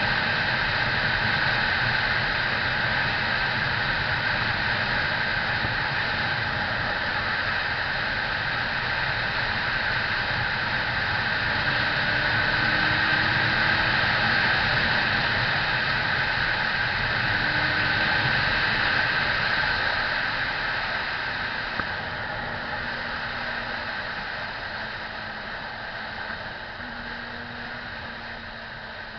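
Steady rushing wind and road noise from a moving motorcycle, with a faint engine hum underneath; it eases off gradually over the last several seconds.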